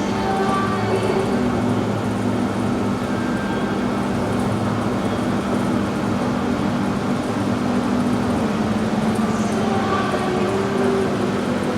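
Steady running noise of a VAL automatic rubber-tyred metro train, with a constant low hum.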